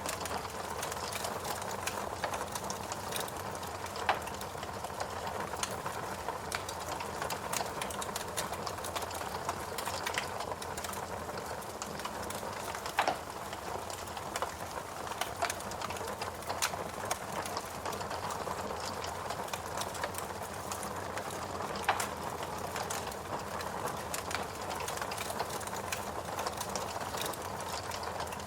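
Fireplace crackling: a steady hiss with dense small crackles and a few louder pops.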